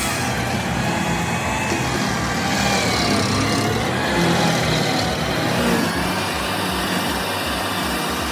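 A Carlton 7015 TRX tracked stump grinder's engine running steadily, swelling slightly in the middle.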